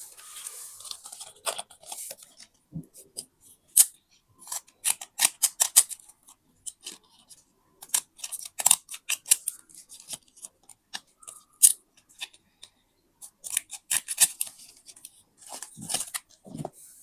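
Scissors cutting paper in quick runs of short snips, in several bursts, with paper rustling at the start.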